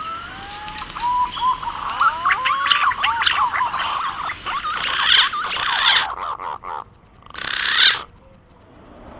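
Green pigeons (punai) calling as a hunting lure call: many overlapping whistled notes that wander up and down in pitch. The calling breaks off about six seconds in, with a short burst of calls near the end.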